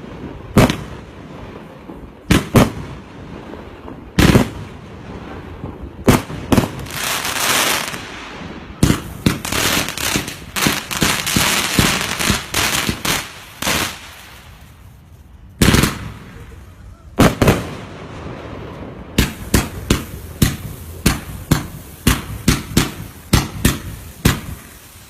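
Multi-shot firework cakes going off: sharp bangs a second or two apart, a dense rapid stretch of pops over a hiss in the middle, then a quick run of bangs about two a second near the end.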